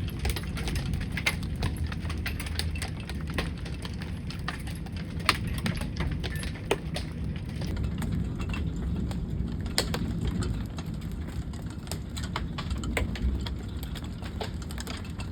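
Wind rumbling on a phone microphone, with irregular sharp taps of raindrops throughout.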